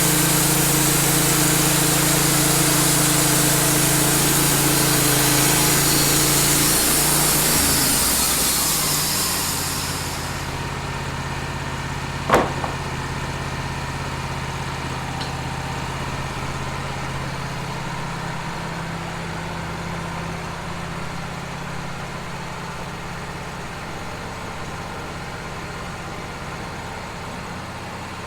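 Wood-Mizer LT15 band sawmill cutting through a cedar log, a loud steady hiss over the running engine; about ten seconds in, the hiss stops as the blade leaves the cut, and the engine runs on more quietly. A single sharp knock comes about twelve seconds in.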